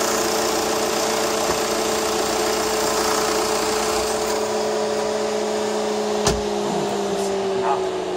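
Mercedes E-Class estate's diesel engine bay, hood open: a steady whining hum over a low rumble. The rumble drops out about halfway through, a sharp click comes about six seconds in, and the whine then slowly falls in pitch, winding down.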